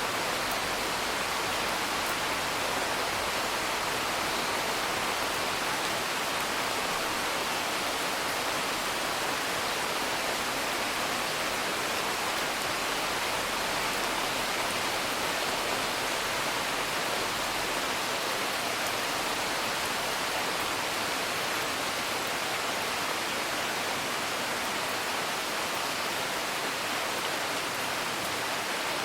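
Steady rain: an even, unbroken hiss of rainfall.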